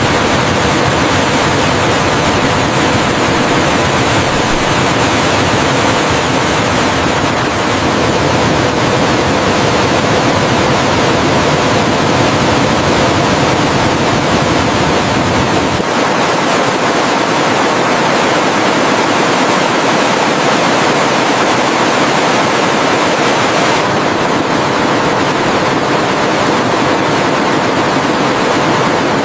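Waterfall's rushing water, a loud steady roar; its deepest rumble drops away about halfway through.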